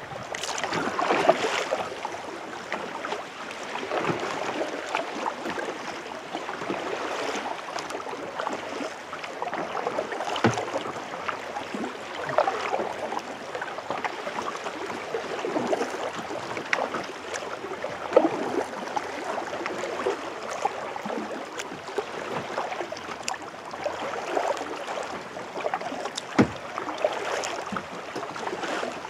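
Kayak paddle strokes dipping and splashing in the water, a stroke every two to three seconds, with a few sharp knocks, one standing out near the end.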